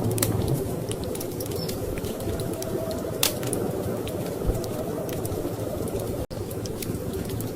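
Wood fire crackling with scattered sharp pops, one louder pop a little past three seconds in, over a steady low rush of storm wind. The sound cuts out for an instant about six seconds in.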